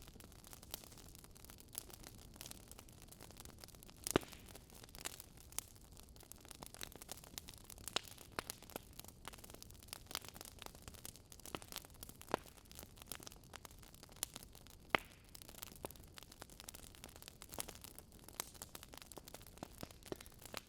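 Wood fire crackling: irregular sharp pops and snaps over a soft steady hiss, with the loudest pops about four seconds in and again near fifteen seconds.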